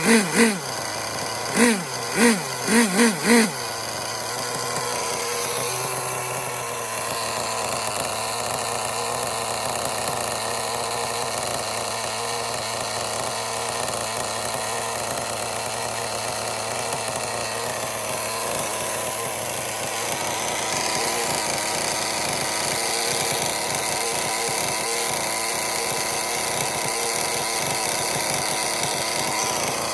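Thunder Tiger PRO-50 model glow engine, firing in a series of short surges with its pitch rising and falling over the first few seconds, then running steadily at high speed with a dense, buzzing note. About twenty seconds in its pitch shifts and it runs a little louder.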